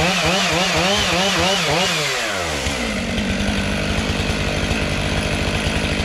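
Two-stroke chainsaw running at high revs, its pitch rising and falling rhythmically about two to three times a second. About two seconds in it drops back to a steady idle.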